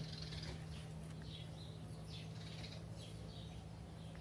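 Birds chirping faintly, with short, scattered chirps over a steady low hum.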